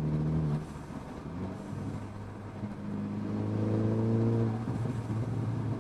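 Mercedes CLA250's turbocharged four-cylinder engine pulling under throttle. The note cuts off abruptly about half a second in, builds again and is held for a couple of seconds, then drops away again near the end. Each drop is a lift off the throttle, where the aftermarket Forge blow-off valve vents the turbo's boost.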